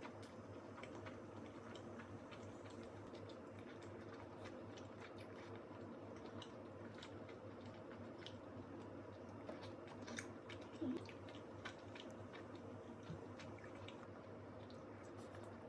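Faint eating sounds of someone chewing food, with scattered small clicks and a slightly louder knock about eleven seconds in, over a steady low hum.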